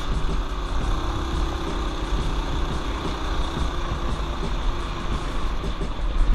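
Mini bike's small single-cylinder four-stroke engine running steadily while riding, with heavy wind rumble on the microphone.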